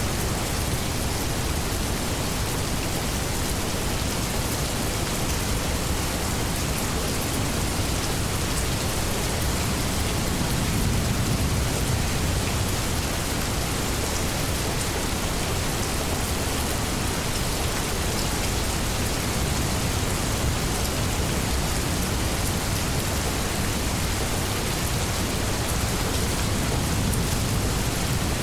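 Steady heavy rain pattering on leaves, an even rushing hiss. A soft low rumble of distant thunder swells about ten seconds in.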